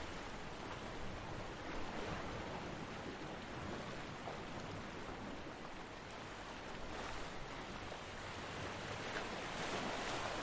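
Ocean surf: waves breaking and washing up a beach in a steady hiss with slow swells, one surge about two seconds in and another building near the end.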